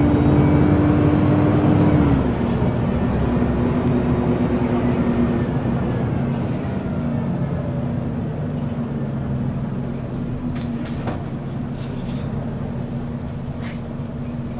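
Scania L94UB city bus engine running with its ZF automatic gearbox. The engine note drops abruptly about two seconds in, then the engine runs steadily and slowly gets quieter.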